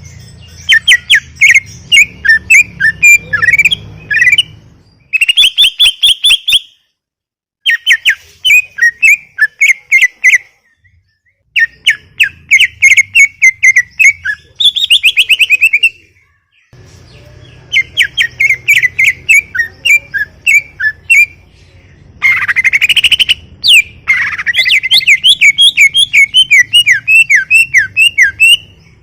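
Greater green leafbird (cucak ijo) singing loudly in continuous full song: rapid chattering phrases of quick, sharp repeated notes, a few seconds each, broken by short pauses.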